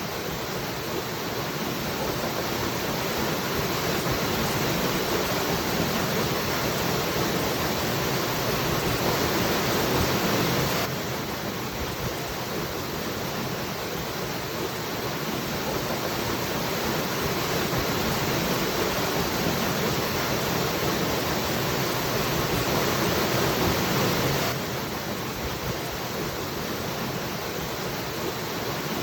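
Waterfall rushing in a steady roar of water noise. It swells slowly and drops back abruptly twice, about eleven seconds in and near the end.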